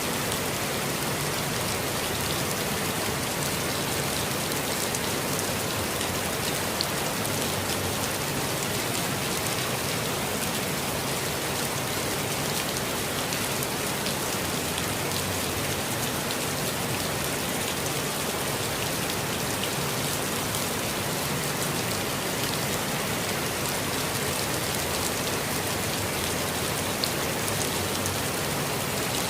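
Steady rain falling, a dense even hiss with a few distinct drops ticking now and then.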